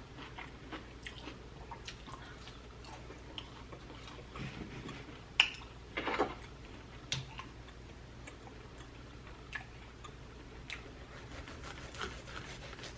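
Close-miked chewing of tomahawk steak: soft, wet mouth clicks throughout, with a few louder smacks near the middle.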